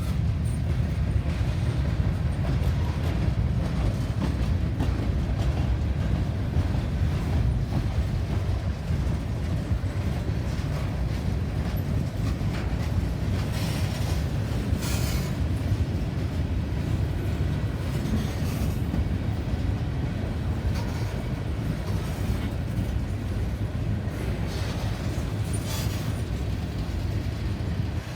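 Train cars rolling past with a steady low rumble, with a few brief sharper high-pitched sounds from the wheels around the middle and near the end.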